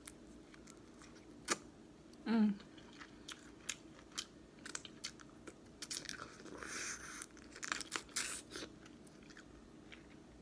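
Close-up eating of boiled crawfish in sauce: wet chewing, with scattered sharp shell clicks and crunches and a denser noisy stretch of about a second past the middle.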